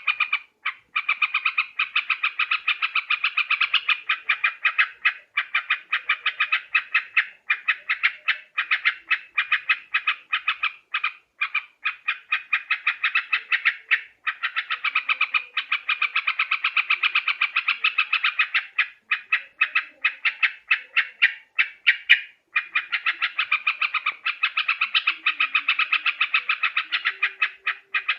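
Yellow-vented bulbul (trucukan) calling: a continuous chatter of short, rapidly repeated notes in runs with brief pauses, played as a bird-trapping lure recording. A single sharp click about three-quarters of the way through.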